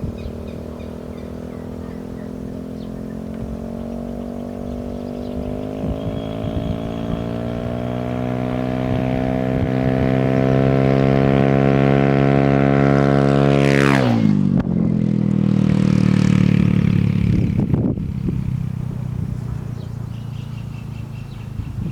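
Yamaha Aerox 155 scooter's single-cylinder engine through an Akrapovic aftermarket exhaust, accelerating with a steadily climbing note that grows louder, then dropping sharply in pitch about fourteen seconds in and tapering off.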